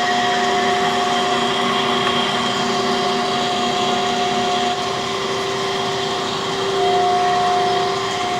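Camshaft grinding machine running: a steady whine over a hiss of machine noise, with a lower hum that drops out about halfway through.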